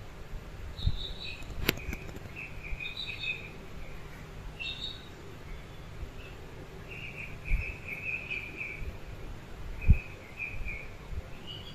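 Small birds chirping in short repeated trills, with a few dull low thumps, the loudest near the end, and one sharp click about two seconds in.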